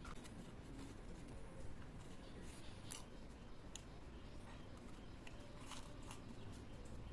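Scissors cutting open a handmade paper blind bag: a few faint, crisp snips and paper crinkles at irregular intervals.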